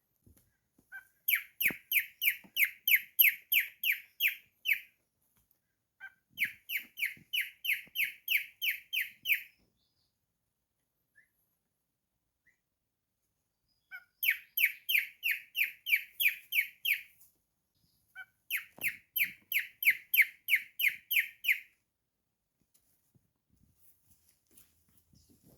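Cockatiel whistling four runs of rapid, evenly repeated high notes, about three or four a second, with short pauses between the runs.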